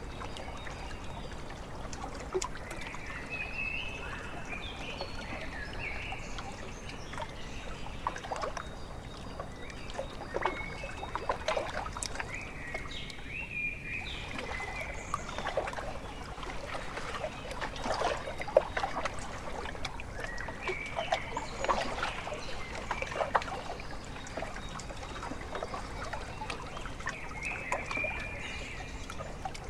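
Small waves lapping and splashing at a lake's edge, with irregular wet slaps that bunch together now and then. Birds give short chirping calls over the water throughout.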